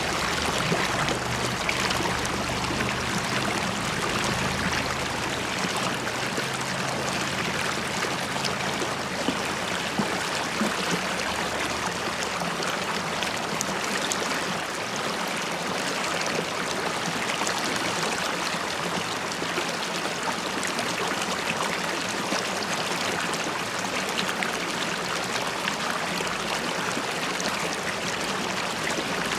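River water flowing and bubbling over stones, a steady babbling with small gurgles and splashes throughout.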